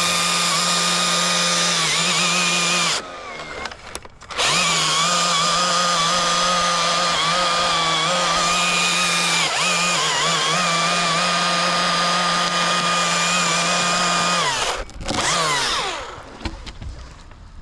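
Two-stroke chainsaw held at full throttle, cutting through a tree limb with a steady high engine note. The throttle drops off about three seconds in and picks up again a second or so later. Near the end the engine winds down, blips once briefly and falls back toward idle.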